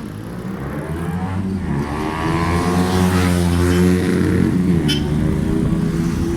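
A motor vehicle's engine passing close by on the road, growing louder to a peak about halfway through and then fading, its pitch dropping as it goes past, over steady road and wind noise.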